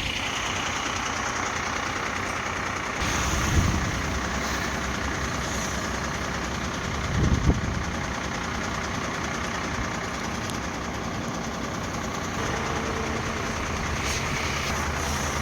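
Truck's diesel engine idling steadily, stopped at the roadside, with two brief louder swells, one a few seconds in and one about halfway through.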